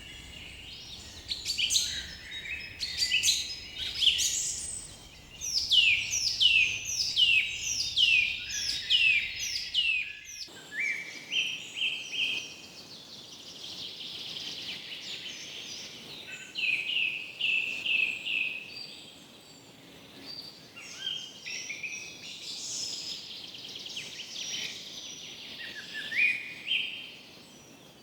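Forest birds singing and calling, several at once. For the first ten seconds one bird repeats quick notes that sweep downward in pitch. About ten seconds in, the low background rumble cuts off abruptly, as at an edit, while the birdsong carries on.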